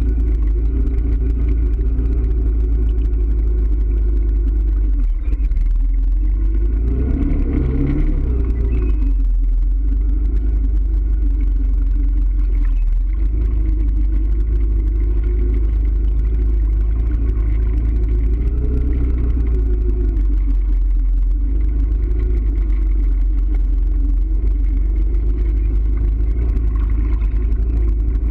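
A motor vehicle's engine running under way with a heavy, constant low rumble, its pitch wavering with the throttle and rising briefly about a third of the way through.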